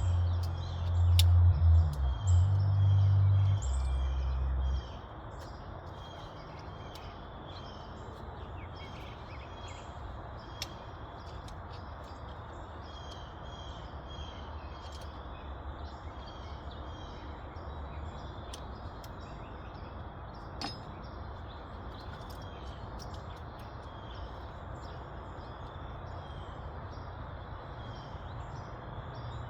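Small birds chirping over and over against a steady background hiss, with a few faint clicks. For the first few seconds a loud low rumble is on top, then it stops abruptly.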